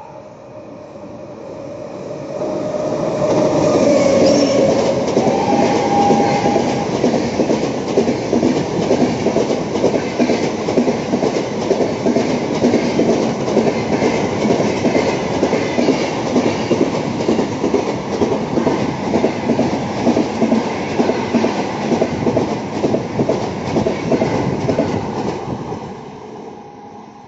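Indian Railways express train passing through a station at speed without stopping. The sound builds over the first few seconds as it approaches, then the wheels clatter rhythmically over the rails for about twenty seconds as the coaches go by, fading near the end as the last coach pulls away.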